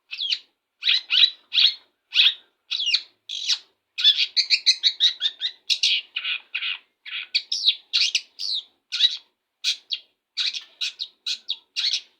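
Long-tailed shrike (cendet) singing a fast, busy song of short, sharp chirping notes, several a second, after its bath.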